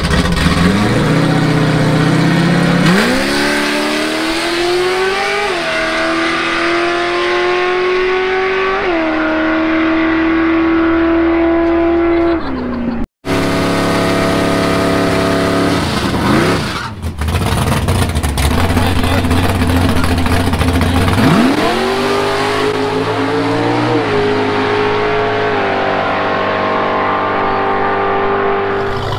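Drag-racing vehicles' engines at full throttle down the strip. The engine note climbs and drops back at each gear change, three times in the first pass. A car doing a burnout follows, its engine held at high revs. Near the end another launch climbs through two more gear changes.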